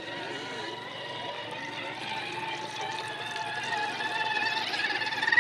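RC scale crawler truck's electric motor and gear drive whining at a steady pitch, getting louder near the end.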